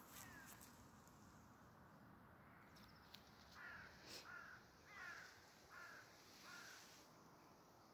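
A bird gives a series of about six short calls in quick succession, starting about three and a half seconds in, over faint outdoor background noise.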